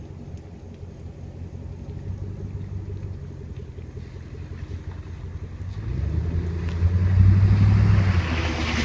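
2005 Jeep Grand Cherokee's 4.7-litre V8 running through a Flowmaster Super 44 muffler and side-exit exhaust: a low, steady exhaust rumble. It swells louder about six seconds in, and a hiss joins near the end.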